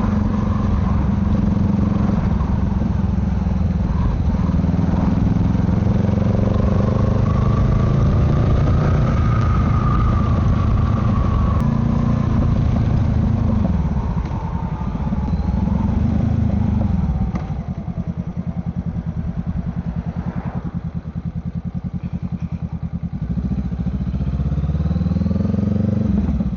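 Honda Rebel 500's parallel-twin engine running under way, with wind and road noise. Its pitch falls twice past the middle as the bike slows, then it drops to a quieter, slow even beat before picking up again near the end.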